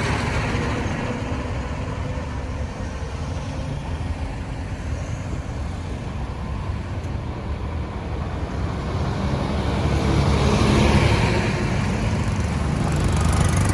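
Road traffic noise: a steady rumble of engines and tyres, growing louder as vehicles pass about ten seconds in and again near the end.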